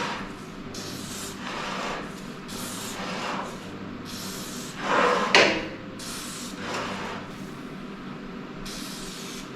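Aerosol can of white lithium grease spraying in about five short hissing bursts down the cable guide tubes of a 1964 VW Beetle, to lubricate them for the new cable. The loudest burst comes about halfway through.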